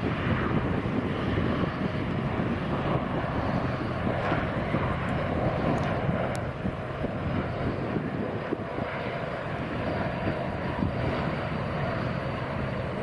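Airliner jet engines running steadily, heard outdoors as a continuous engine noise with a faint high whine.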